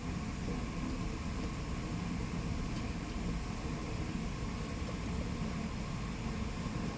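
Steady background noise: an even low rumble with hiss above it and no distinct events.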